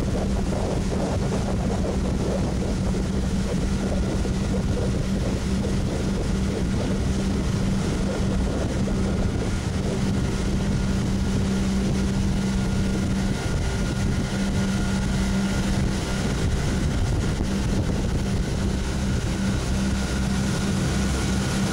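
Two-stroke marine engine running steadily at constant speed during its break-in on premixed fuel, with wind buffeting the microphone.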